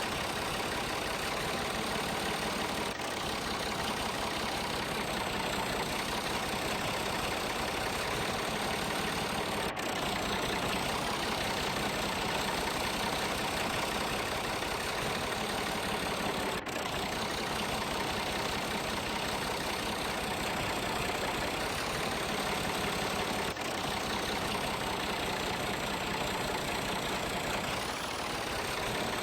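An engine running steadily at idle, a continuous even drone with no revving.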